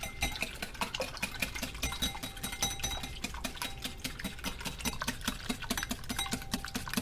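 A wire whisk beating eggs and milk in a bowl, clicking against the bowl in a quick, steady rhythm.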